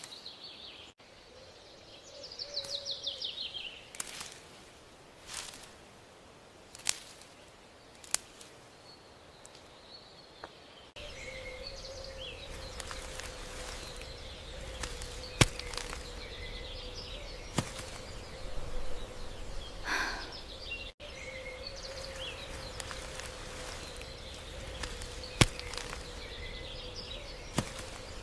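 Outdoor nature ambience with a few bird chirps and scattered sharp clicks, and a faint steady hum in the second half.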